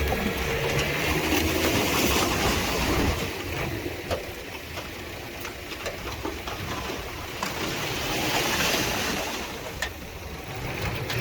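Diesel engine of heavy earthmoving machinery running, under a steady rushing noise with scattered clicks and knocks. The engine's low hum is strongest for the first three seconds, then drops back.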